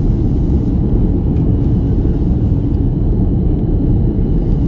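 Airbus A330 jet engines and rushing air heard from inside the cabin during takeoff: a loud, steady, deep rumble.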